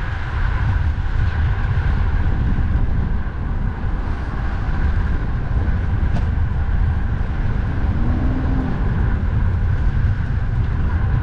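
Steady wind rumble buffeting a cyclist's microphone while riding in strong wind, over the hum of passing road traffic.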